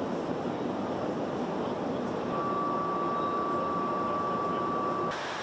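Steady cabin noise of a NATO AWACS surveillance aircraft in flight, engine and airflow noise. About two seconds in, a steady high single tone joins it and holds for nearly three seconds, then it stops and the cabin noise gets a little quieter near the end.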